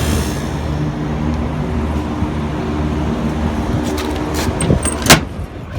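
Trane Voyager 20-ton rooftop air-conditioning unit running in cool mode, a steady mechanical hum, after a burnt control transformer was replaced. A few light clicks and one sharp knock come near the end.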